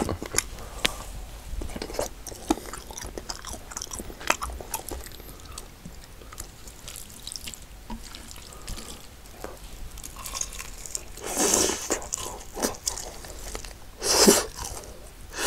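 Close-miked eating of glazed fried chicken: chewing with many small wet clicks and smacks, and two louder, noisier mouthfuls about eleven and fourteen seconds in.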